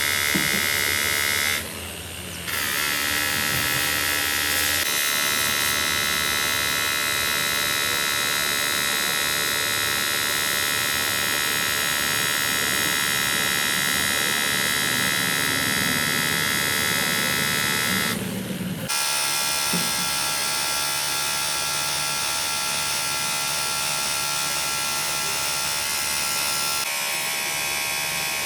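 Workshop machinery motor running with a steady, high buzzing whine. It drops away briefly twice, about two seconds in and past the middle, then picks up again at a slightly changed pitch.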